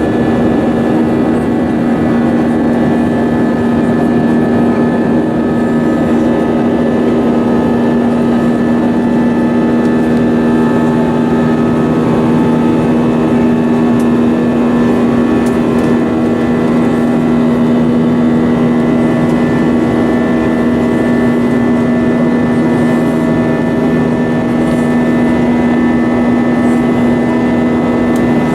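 Inside the cabin of a jetBlue Airbus A320, the jet engines run steadily: a loud, even rush of noise with a constant low hum and several steady higher tones, with no change in pitch.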